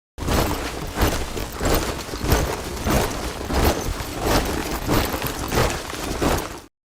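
Soldiers marching in step, many boots striking the ground together in a steady beat of about three footfalls every two seconds. It starts just after the opening and cuts off abruptly near the end.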